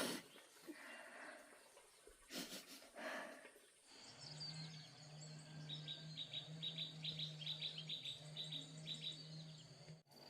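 Bird chirping in a quick run of short, repeated high notes from about four seconds in, over a steady low hum.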